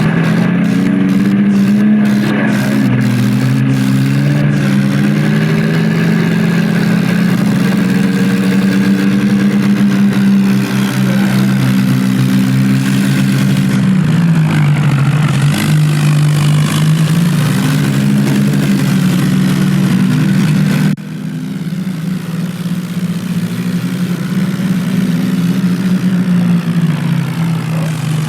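Diesel tractor engines running hard under load during a tractor tug-of-war. The engine pitch rises and falls slowly as the revs change, and about three-quarters of the way through the sound drops suddenly in level before building up again.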